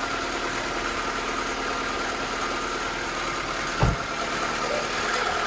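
Acura Integra's B18B1 1.8-litre four-cylinder engine idling steadily, with the clicking noise the owner puts down to valves needing adjustment. A single low thump about four seconds in.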